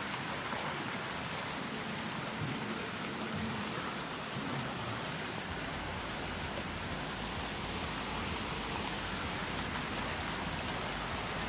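Hailstorm downpour: heavy rain falling steadily, with scattered faint ticks of hailstones. A low rumble joins about halfway through.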